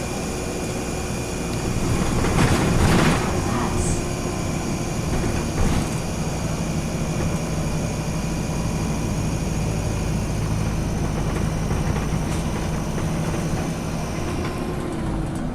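DAF SB120 bus with Wright Cadet body running in service, its engine and Allison automatic gearbox droning steadily, heard from inside. A louder rushing noise swells about two seconds in, and the engine note shifts near the end.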